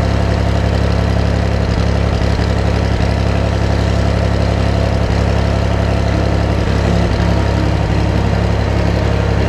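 Case 380 CK tractor engine running at a steady speed, a loud, even drone with no revving.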